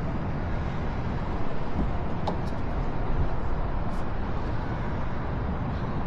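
Steady rumbling outdoor background noise, with a couple of faint clicks.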